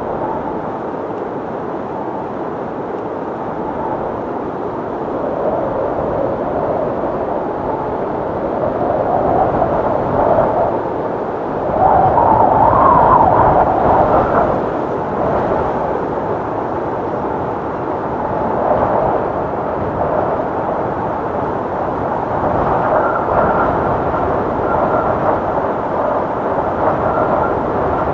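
Wind blowing in rising and falling gusts, with the strongest gust about twelve seconds in. A faint high whistle comes in during the last few seconds.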